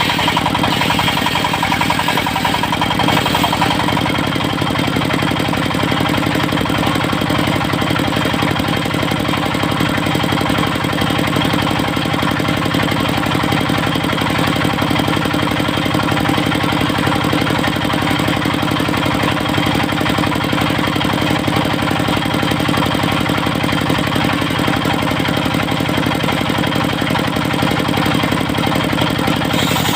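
Engine of a portable circular sawmill running steadily, with a rapid, even firing beat and a slight change in tone about three seconds in.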